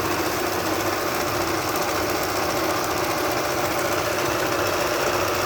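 Janome sewing machine running steadily at speed, stitching a selected decorative pattern.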